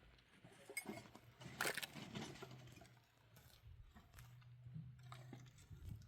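Faint, scattered clinks and crunching of small objects being handled, loudest about two seconds in, with a low hum coming and going in the middle.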